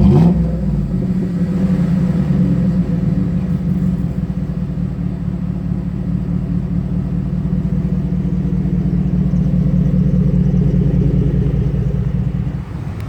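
Ford F-150's 5.0-litre V8 through an aluminized MBRP side-exit pre-axle exhaust, dropping back from a rev at the start and then running steadily with a deep rumble, a little quieter near the end.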